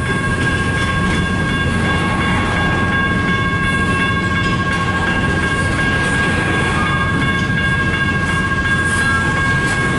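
Long CN intermodal double-stack freight train rolling past slowly, its cars rumbling and clacking over the rails, with a steady high-pitched ringing tone held over it.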